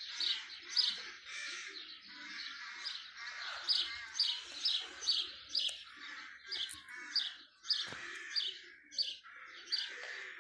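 Small birds chirping steadily, short high chirps repeating about twice a second.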